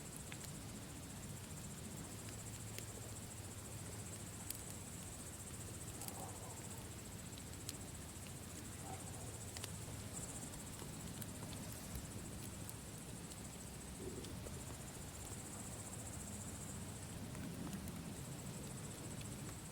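Campfire crackling, with scattered sharp pops every second or two over a low steady rumble of the fire, and a steady high chirring of crickets behind it.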